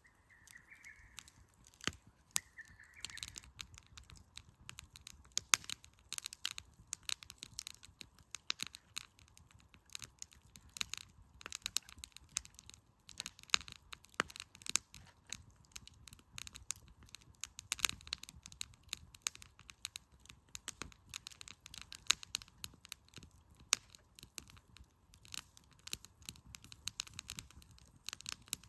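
Wood fire crackling, with dense, irregular sharp snaps and pops.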